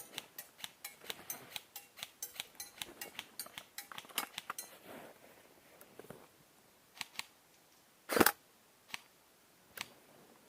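Airsoft guns firing: a quick run of light snapping shots at about four a second for the first four seconds or so, then scattered single shots, one much louder and closer a little after eight seconds.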